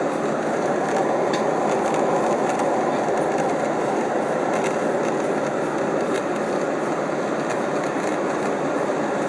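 Steady cabin noise of an airliner in flight: the even hiss of engines and rushing air, heard through a phone's microphone.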